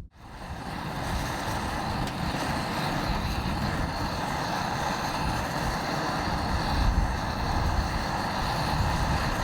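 Strong gusty wind buffeting the microphone, a steady rumbling rush.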